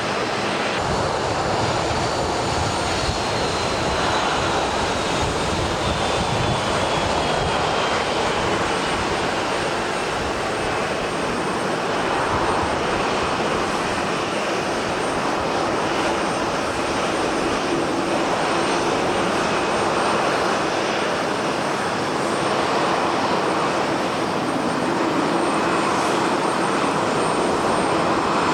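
Boeing 787-10 jet airliner's engines at takeoff power on a departure run: a steady, loud roar, with a high whine that falls in pitch over the first ten seconds or so.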